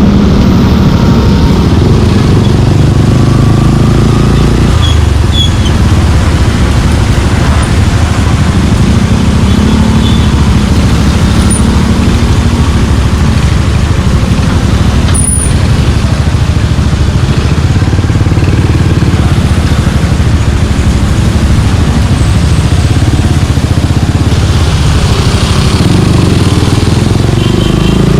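Suzuki Gixxer 155's single-cylinder engine running steadily under way through a Yoshimura aftermarket exhaust, with a brief sharp tick about fifteen seconds in.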